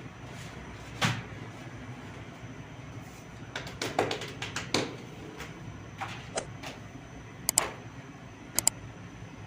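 Irregular knocks and clicks of handling work, one about a second in, a quick cluster a few seconds in and a few sharp pairs near the end, over a steady low background hum.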